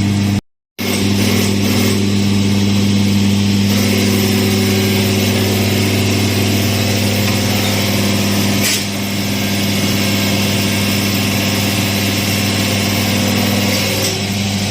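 A machine running steadily with a deep, even hum. The sound cuts out for a moment about half a second in.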